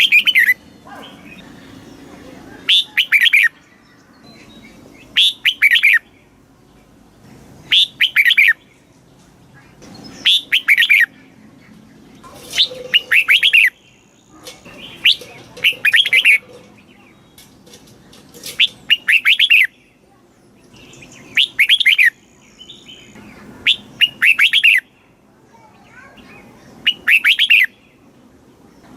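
Red-whiskered bulbul singing: short, bright warbled song phrases about a second long, repeated roughly every two and a half seconds, about ten in all.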